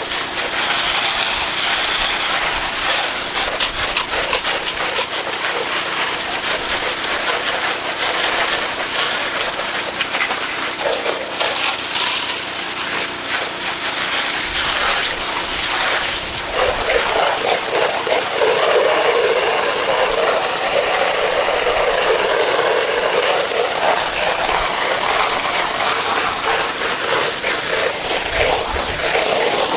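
Pressure washer spraying a house wall, its water jet making a steady, loud hiss that gets louder a little past halfway through.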